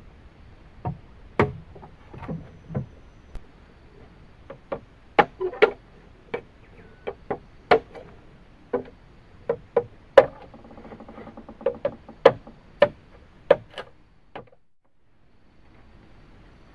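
Bamboo being worked by hand: about twenty sharp, hollow knocks and clacks at uneven spacing, some louder than others. They stop about fourteen and a half seconds in.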